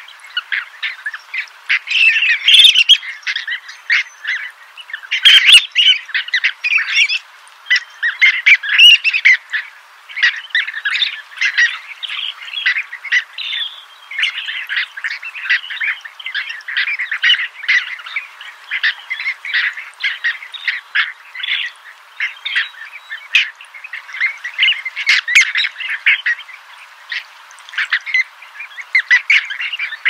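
A flock of birds calling: a dense, unbroken chatter of many short chirps overlapping one another, with louder clusters every few seconds.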